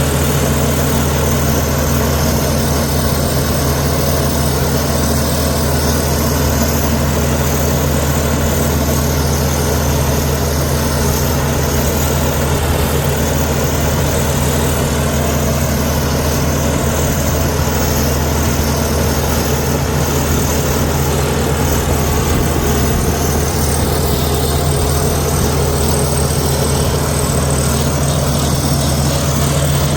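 Komatsu D61EX bulldozer's diesel engine running at a steady, even pitch and loudness.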